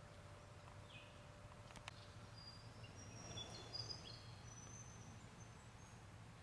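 Faint bird chirps and short high whistled calls, clustered in the middle, over a low steady hum.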